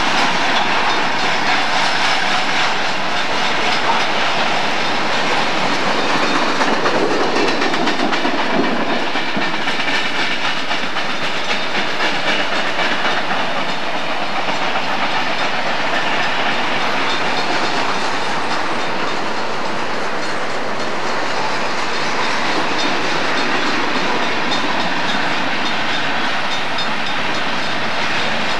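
A freight train of tank cars and double-stack container cars rolling past, with a steady rumble and rattle and its wheels clacking over the rail joints.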